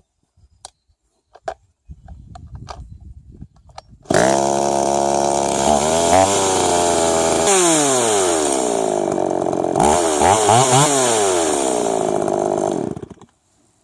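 Chainsaw engine starting about four seconds in, then running and revving up and down several times before it cuts off near the end. The saw is running again after being repaired.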